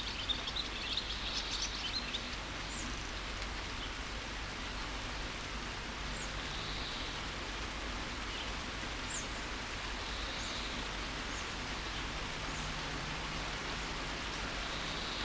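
Steady rain falling, with a burst of small bird chirps in the first two seconds and a few faint single chirps later.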